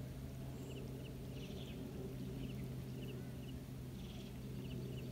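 Open-air ambience: a bird repeats a short, high chirp about every three-quarters of a second over a steady low hum.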